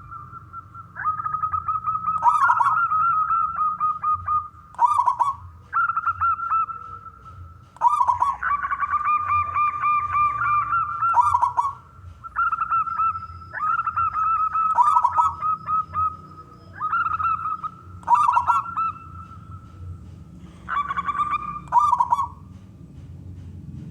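Male zebra dove (perkutut) singing, with repeated trilled cooing phrases about every one to two seconds.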